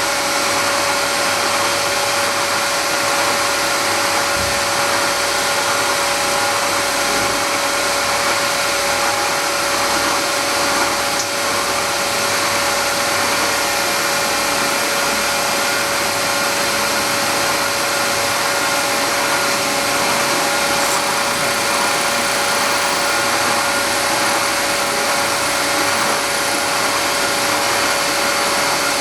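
Milling machine cutting metal, running steadily throughout with a constant pitched whine over a dense machining noise.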